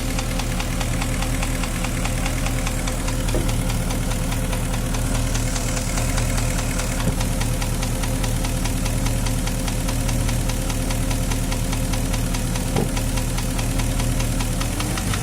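Porsche Cayenne 4.5-litre V8 (M48.00) engine idling with a rapid, even knock.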